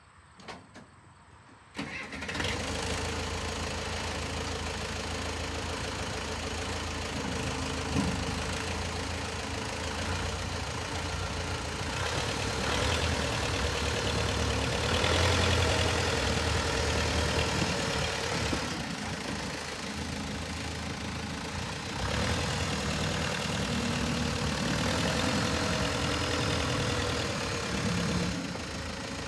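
Engine of a Case 580B backhoe running steadily. It comes in suddenly about two seconds in, then grows louder twice for several seconds at a time.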